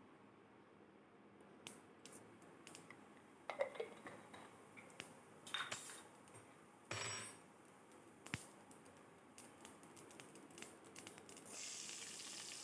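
Mustard and cumin seeds crackling in hot coconut oil in a pan: scattered faint pops and clicks with a few louder clinks against the metal, and a steady sizzle rising near the end.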